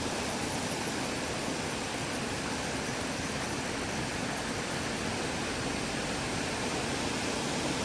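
Steady rushing of creek water, an even hiss with no distinct events.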